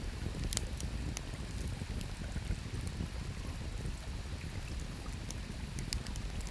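Burning campfire wood crackling with a handful of sharp pops, the loudest about half a second in, over the steady low rush of a flowing river.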